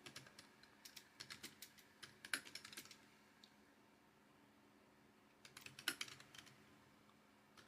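Faint typing on a computer keyboard: a run of key clicks for about the first three seconds, then a shorter burst about five and a half seconds in.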